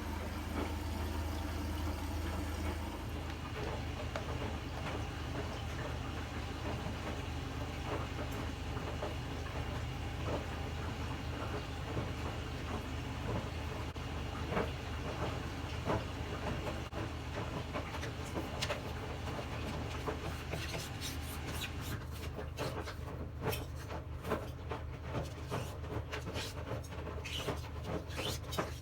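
A steady low mechanical hum with many small clicks and knocks over it. The clicks come thicker in the last several seconds.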